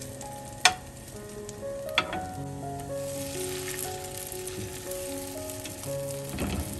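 Butter sizzling in a nonstick pan around frying shredded cabbage, carrot and ham. A metal spoon clicks sharply against the pan twice, under a second in and about two seconds in.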